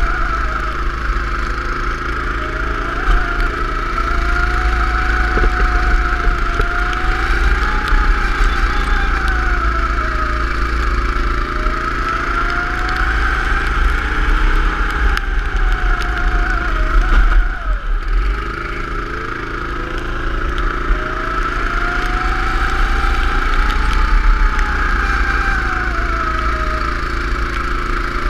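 Go-kart engine running hard, its pitch climbing and falling again and again as it accelerates and slows. About two-thirds of the way through, the revs drop sharply and briefly before climbing again.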